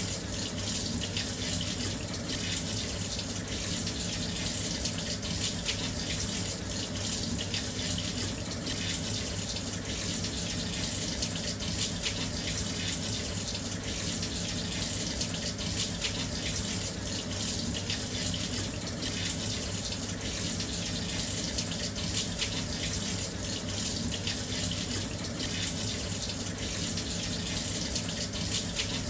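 Washing machine filling with water: a steady, unbroken rush of water pouring into the drum.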